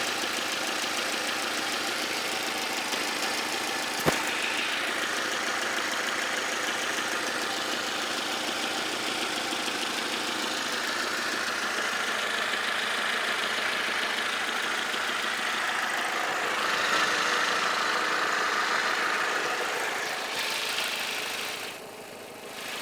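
2.2-litre engine of a 2003 Vauxhall Vectra C SRi running with a ticking noise. There is a single sharp click about four seconds in, and the sound drops away shortly before the end.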